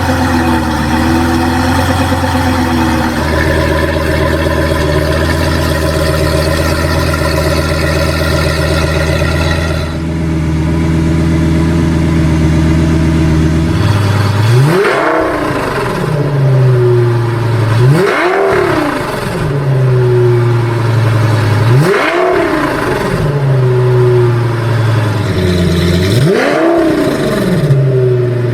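Lamborghini Gallardo V10 through a Tubi Style extra-loud exhaust, idling steadily and then revved four times about every four seconds from halfway through. Each rev rises sharply in pitch and drops back to idle.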